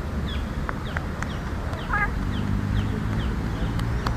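Birds chirping: short, high, falling chirps about twice a second, with one wavering call about two seconds in, over a steady low hum and a few light taps.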